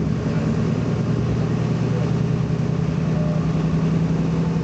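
Diesel engine of a BMC Belde 220-SLF city bus running with a steady drone.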